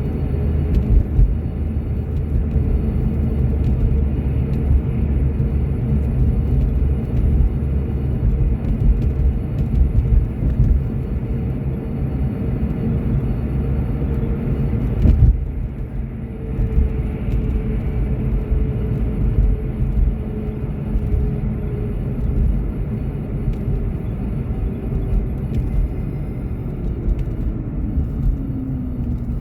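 A car driving on a cold winter road: a steady low rumble of engine and tyre noise, with a faint whine that sinks slowly in pitch and drops further near the end. A single sharp knock comes about halfway through.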